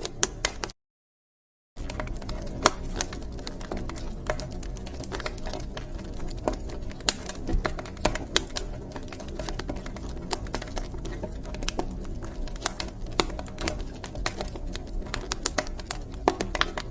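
Wood fire crackling in a fireplace: irregular sharp pops and snaps over a low steady rumble. About a second in, it cuts out to dead silence for a second, then resumes.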